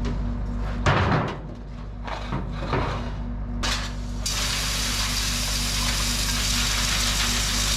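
Several sharp metallic clanks and knocks, then a steady rushing noise from about four seconds in, over a constant low mechanical hum.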